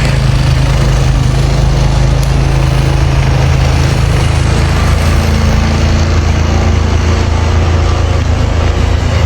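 An engine running steadily and loudly, its low hum shifting slightly about halfway through.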